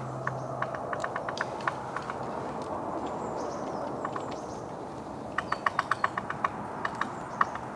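Great spotted woodpecker pecking at wood: irregular sharp taps, with a quicker run of about ten taps a little past halfway through.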